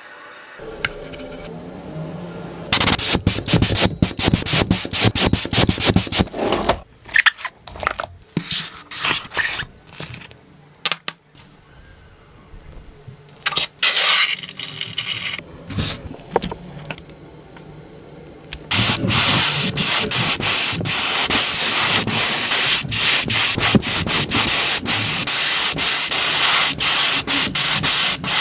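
Sanding and scraping, in stop-start stretches with short pauses, then steady continuous sanding from about two-thirds of the way in.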